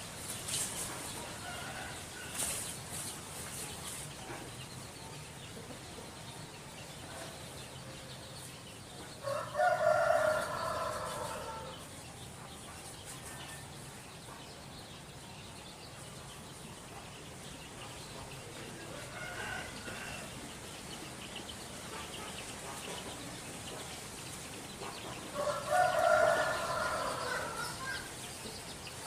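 Rooster crowing twice, each crow lasting about two seconds, the crows about sixteen seconds apart.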